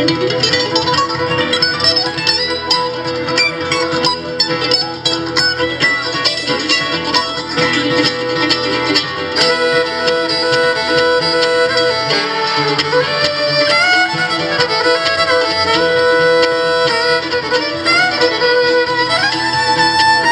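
Acoustic string band playing an instrumental break in a bluegrass-style song: quick picked notes over guitar, then a fiddle takes the lead with long, sliding bowed notes about halfway through.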